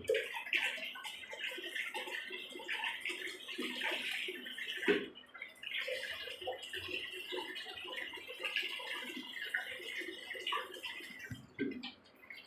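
Water splashing and trickling in irregular spurts, like water being poured and dripping during washing.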